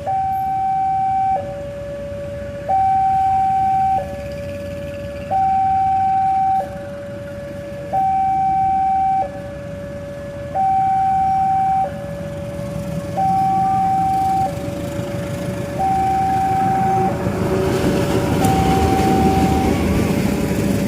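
Level-crossing warning alarm sounding a two-tone hi-lo signal, each tone held about a second and a quarter, warning of a train. A rumble builds underneath from about three quarters of the way through as the train approaches.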